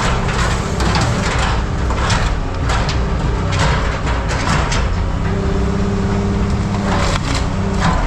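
Heavy machinery running in a scrap yard, with scrap metal clattering and knocking. About five seconds in a steady hum sets in, as a hydraulic pump or engine comes under load.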